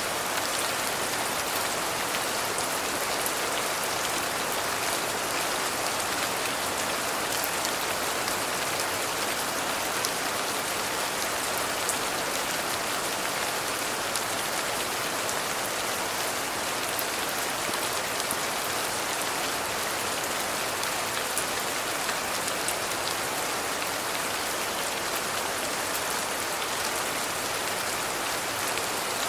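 Steady rain falling: an even, unbroken hiss with scattered sharp taps of single drops.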